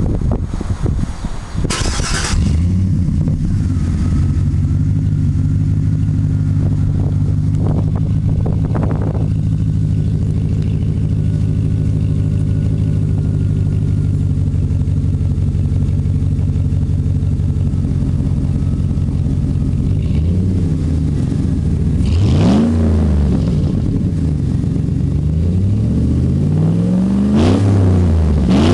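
GMC Sierra Denali V8 exhaust through a Gibson cat-back, split-rear system: the engine fires up about two seconds in and settles into a steady idle. Near the end it is blipped several times, the pitch rising and falling with each rev.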